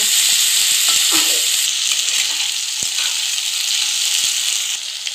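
Cubed potatoes sizzling as they fry in hot oil in a kadai, with a spatula scraping and clicking against the pan as they are stirred. The sizzle eases slightly near the end.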